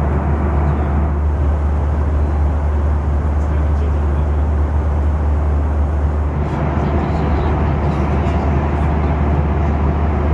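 Steady cabin noise of a Boeing 737 in cruise: a loud, even rumble of airflow and engines with a strong low drone.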